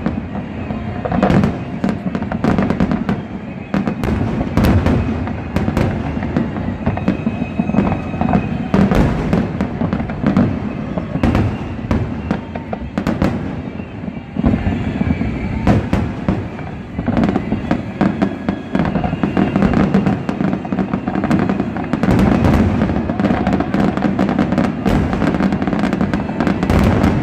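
Fireworks going off in a continuous barrage of overlapping bangs and booms, with crackling between them.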